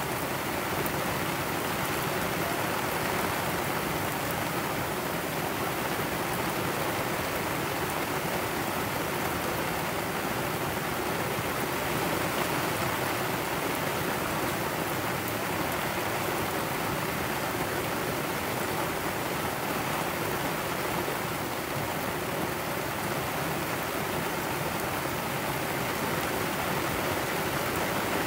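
Heavy tropical-storm rain pouring down steadily on a sailboat's deck and canvas: a dense, even hiss with no breaks or single impacts.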